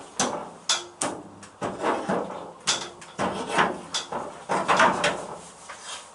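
Irregular metallic knocks and clatters, about ten sharp strikes in six seconds, some ringing briefly: tools and clamps being handled against the Mini's sheet-steel toe board during panel fitting.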